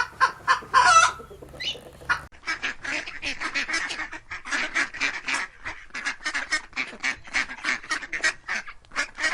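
Domestic waterfowl calling in a rapid run of short honking calls, about three or four a second. A few louder, separate calls come first, before the background changes about two seconds in.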